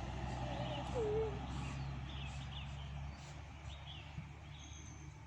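Faint wild bird calls: one short warbling call about a second in, then a few small high chirps, over a low steady rumble that fades about halfway through.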